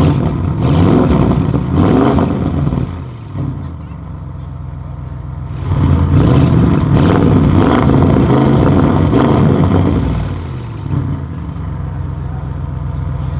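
Audi RS6 C8's twin-turbo V8, breathing through catless downpipes, an OPF delete and an aftermarket exhaust, revved in two long bursts and dropping back to a steady idle between them and afterwards.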